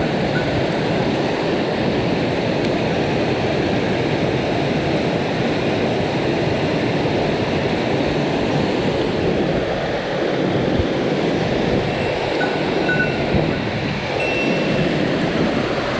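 Mountain stream water rushing over rocks: a loud, steady rush.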